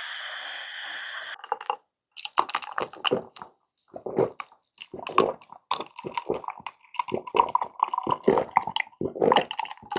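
Close-up wet, sticky chewing and mouth sounds of someone eating, with irregular smacks and squishes. A steady hiss runs at the start and cuts off suddenly about a second and a half in.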